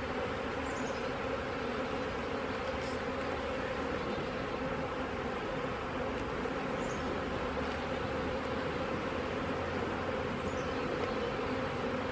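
A mass of honey bees buzzing in the air around an opened hive, a steady, unbroken drone.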